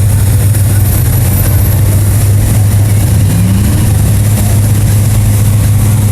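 Mega truck's big engine running steadily, a loud low hum that holds the same pitch, with a slight brief rise about halfway through.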